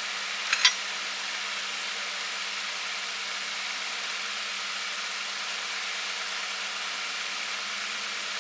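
Steady hiss with a faint low hum under it, and two sharp clicks about half a second in.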